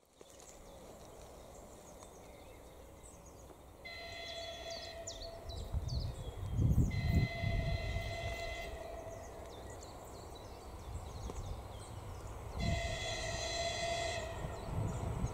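Train horn sounding three blasts, each about a second and a half long, as the train approaches a level crossing that has only crossbuck signs and no warning lights. A low rumble swells about six to seven seconds in.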